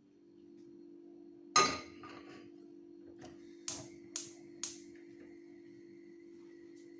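Kitchenware clattering: one loud ringing knock of a dish or utensil being set down, then three quick sharp taps about half a second apart, over a steady hum.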